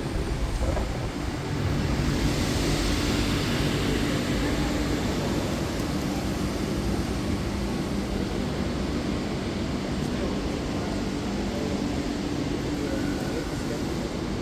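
Steady vehicle noise: a low, even engine hum under a haze of road or traffic noise.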